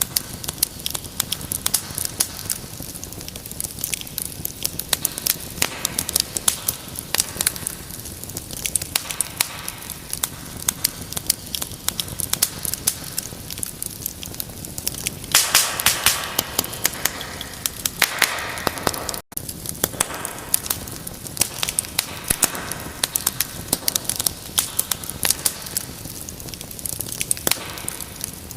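Wood fire crackling, with irregular sharp pops and snaps. A louder, denser flurry of crackling and hissing comes a little past the middle. The sound cuts out for an instant shortly after.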